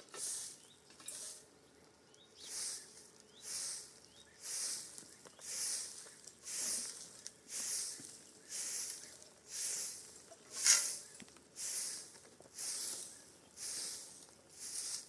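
Even rhythm of rasping, hissing strokes, about one a second, like a hand tool or brush being worked back and forth, with one stronger stroke about two-thirds of the way in.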